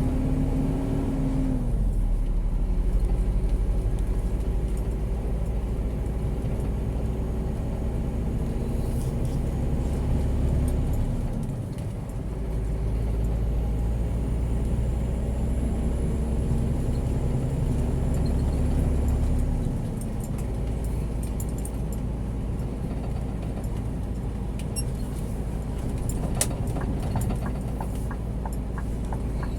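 Scania G410 truck's diesel engine running steadily on the road, heard from inside the cab. The engine note drops twice, about 11 seconds in and again about 20 seconds in.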